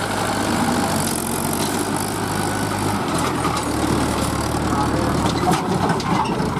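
Tractor diesel engine running steadily, its low note shifting slightly a couple of times.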